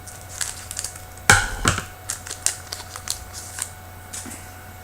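Hockey trading cards and their pack being handled: a run of irregular crisp clicks and short rustles as cards are slid and flicked, loudest about a second and a half in.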